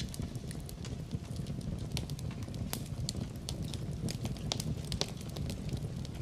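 Fireplace fire crackling, with many irregular sharp pops and snaps over a steady low rumble of the flames.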